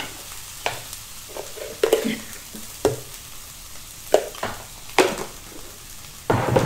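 Minced chilli paste for sambal belacan sizzling in hot oil in a frying pan, with about six sharp knocks spread through.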